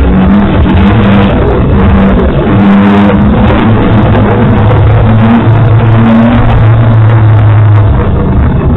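Rally car engine heard from inside the cockpit, running hard at speed on a stage with its note changing pitch several times, over loud road and cabin noise.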